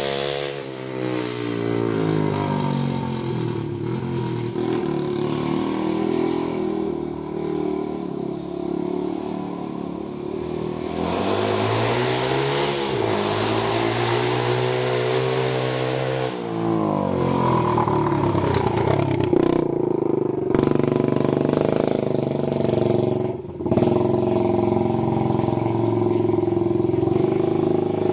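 Honda TRX90 ATV's small single-cylinder four-stroke engine running with the muffler removed, exhausting through a bare tip. The engine pitch falls about a second in, climbs again about eleven seconds in and drops back a few seconds later. It then holds a steady, higher pitch, with two brief dips where the throttle is let off.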